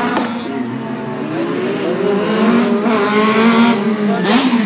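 Subaru Impreza STI's turbocharged flat-four engine pulling hard on the track, its note climbing steadily through the rev range for about three seconds, then dropping sharply at a gear change near the end with a short rush of noise.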